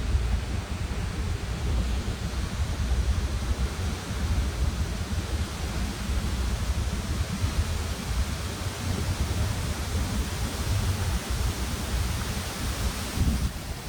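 Steady rushing of a waterfall, with a low rumble of wind buffeting the microphone.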